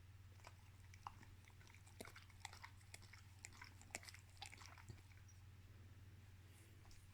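A dog chewing and crunching a food treat: faint, irregular crunching clicks that thin out after about five seconds, over a low steady hum.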